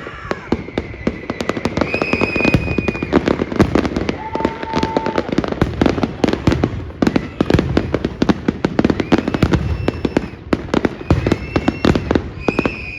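Fireworks going off in a rapid, continuous barrage of bangs and crackles, with a few short whistles among them.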